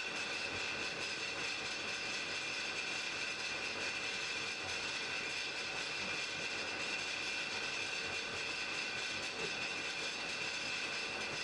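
Blacksmith's forge fire burning with a steady rushing hiss and faint crackles.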